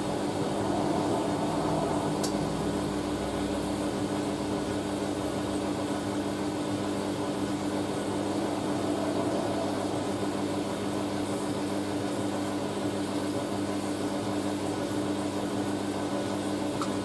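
Hoover A3060 Electronic 1100 washing machine running steadily through a long distribute phase, its motor turning the drum with a steady hum, the load slightly out of balance before the spin.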